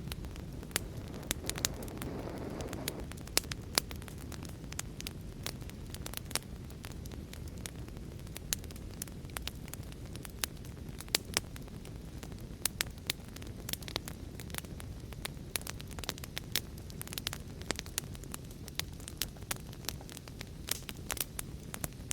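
Fire crackling: a steady low rumble of burning with frequent sharp, irregular pops and snaps. A short swell of hissing flame about two seconds in.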